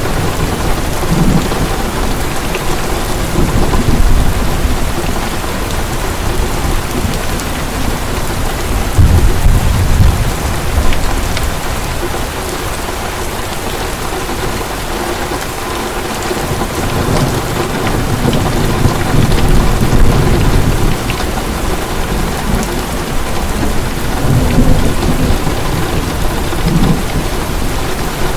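Heavy rain falling steadily, with deep rolls of thunder that swell and fade several times, the strongest about nine to ten seconds in.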